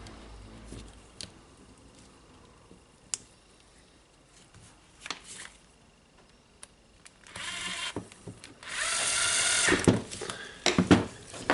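A small power tool runs in two short bursts, the first about seven seconds in and a louder one just under a second later. Light clicks of parts being handled come before and after.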